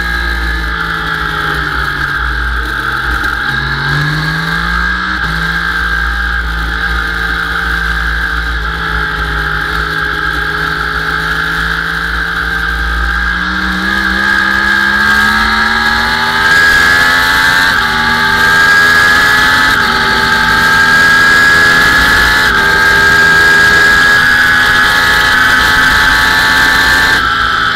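Sport motorcycle engine heard from an onboard camera on a track. The engine drops in pitch in the first few seconds as the bike slows for a corner, then pulls out and accelerates hard, its pitch climbing and stepping up through several upshifts. Heavy wind rumble on the microphone runs underneath.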